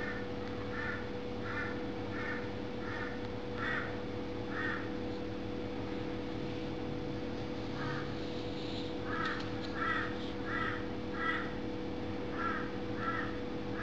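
A bird calling in two runs of evenly spaced calls, about one and a half a second, with a pause of a few seconds between the runs, over a steady low hum.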